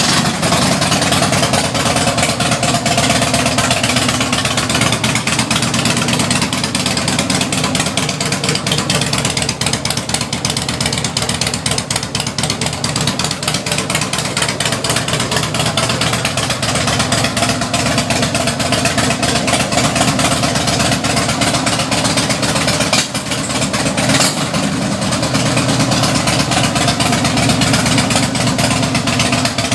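Harley-Davidson 1600 cc V-twin running loud and steady through homemade straight pipes with no mufflers.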